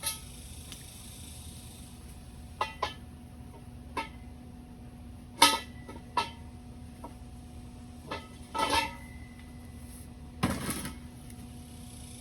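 Scattered metal clanks and knocks, about a dozen at uneven intervals, some with a short ring. These are welded steel pieces being handled and set down.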